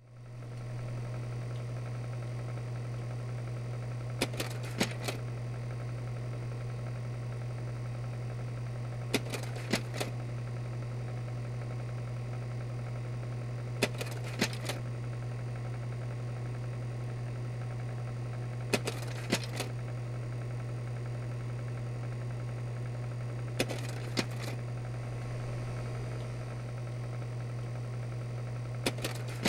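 Slide projector running: a steady motor and fan hum, with a clack-clack of the slide-change mechanism about every five seconds as each slide advances.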